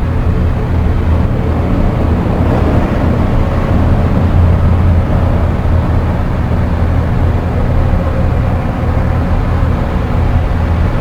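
Dark ambient electronic drone music: a dense, rumbling low drone with a noisy hiss above it, holding steady and swelling slightly about halfway through.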